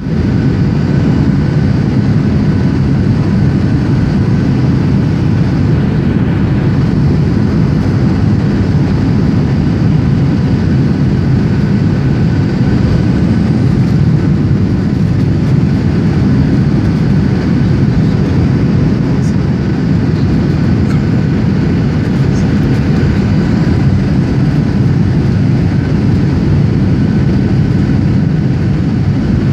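Steady, loud cabin noise of a Boeing 737-700 in flight: the CFM56-7B engines and rushing airflow, with a few faint steady tones above the deep rumble.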